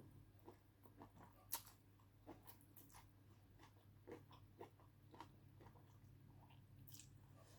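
Faint, close-up chewing and small wet mouth clicks of someone eating rice noodles, with one sharper click about one and a half seconds in.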